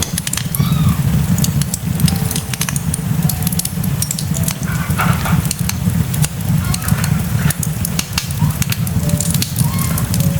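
Food frying in a hot pan: a steady sizzle with dense, irregular crackling.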